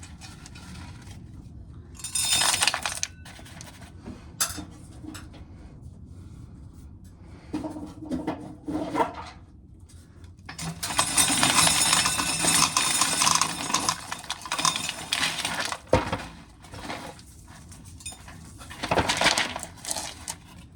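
Dried corn kernels being shelled off the cob and clattering onto a hard container, in irregular bursts. There are short rattles near the start and middle, a longer run of rattling from about the middle on, and another burst near the end.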